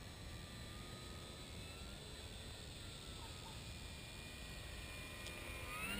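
Faint whine of a Dynam Cessna 188 RC model's electric motor in flight, its pitch drifting slowly, over a low steady background hiss. Near the end a louder tone starts and rises in pitch.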